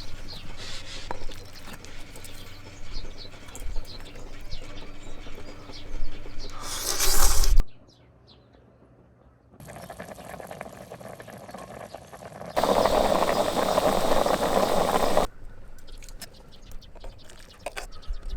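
Wood fire crackling and popping in a large fire pit, in several clips cut together: sharp pops over a rushing noise, broken by a moment of near silence about eight seconds in and by a louder steady rush of flames for a few seconds in the middle.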